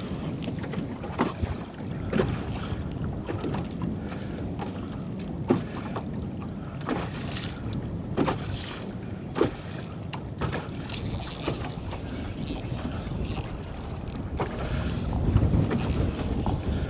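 Wind buffeting the microphone over choppy waves slapping against the hull of a fishing boat, a steady rushing noise broken by scattered short knocks.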